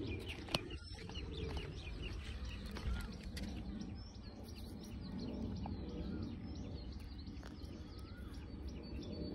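Small birds chirping many times over, short quick calls, above a steady low outdoor rumble, with one sharp click about half a second in.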